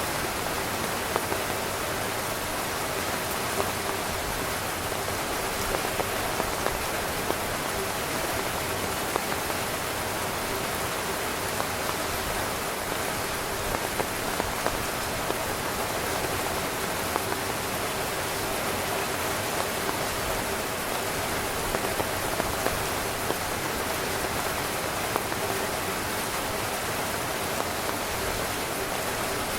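Heavy rain drumming steadily on a tent's fabric, a dense hiss with many separate drops pattering.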